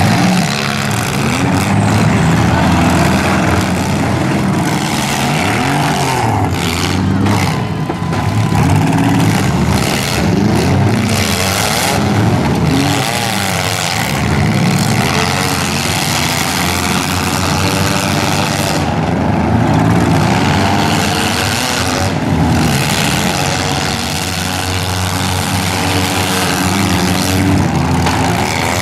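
Several compact demolition derby cars with their engines revving hard, the pitch climbing and falling repeatedly as they accelerate and back off, several engines overlapping.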